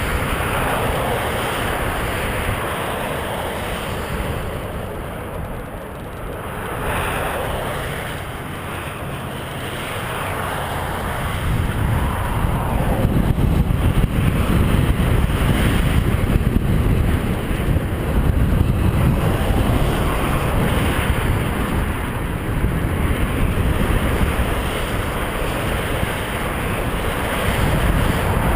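Wind rushing over a GoPro's microphone as a bicycle rides along, a steady low rumbling noise that gets louder and heavier about twelve seconds in.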